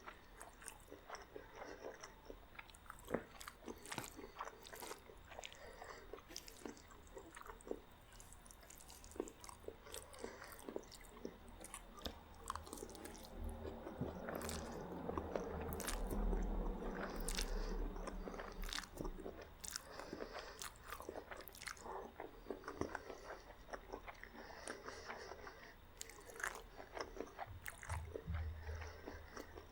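Close-miked ASMR eating of meat spaghetti and garlic bread: chewing and biting with crunches and many small mouth clicks, louder and denser about halfway through.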